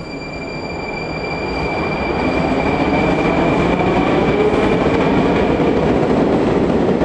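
Rusich 81-740/741 metro train running past on the track, its rumble growing louder over the first two or three seconds and then holding steady. A thin high whine sounds above the rumble and fades out near the end.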